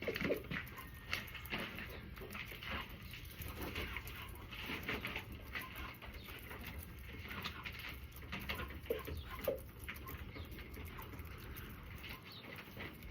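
Backyard chickens clucking softly among themselves, with a couple of short, clearer calls about nine seconds in.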